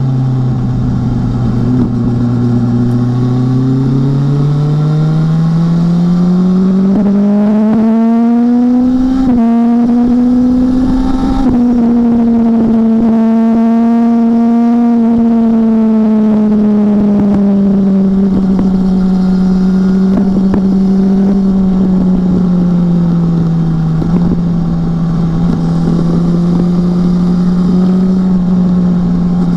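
BMW S1000R's inline-four engine pulling under way: its note climbs steadily for about nine seconds, breaks briefly, then eases gradually lower and settles into a steady cruise.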